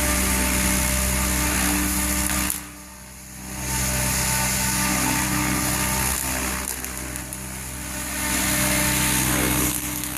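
Goblin 700 electric RC helicopter running at flying speed, its main rotor and motor making a steady whine over a rushing hiss of rotor wash. The sound drops off sharply for about a second, about two and a half seconds in, then comes back, dips again partway, and falls once more near the end.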